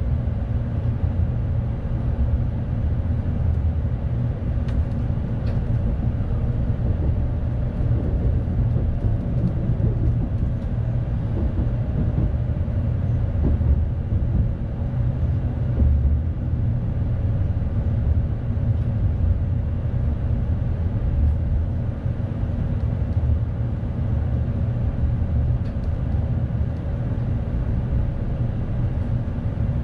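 Tokaido Shinkansen train running, heard from inside the passenger cabin: a steady low rumble with a faint steady whine above it, as the train nears and enters a station stop.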